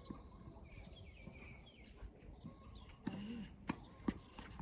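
Outdoor ambience with faint bird chirps. Near the end come two sharp knocks of a tennis ball bouncing on the hard court.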